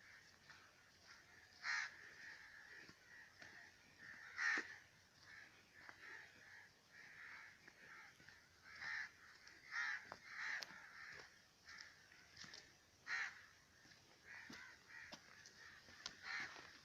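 Birds calling outdoors: short, harsh, caw-like calls repeated at irregular intervals, the loudest about 2, 4.5, 10 and 13 seconds in.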